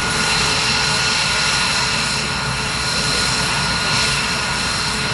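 Aircraft engine running steadily: a constant whine with several fixed high tones over a rushing hiss, holding the same pitch and level throughout.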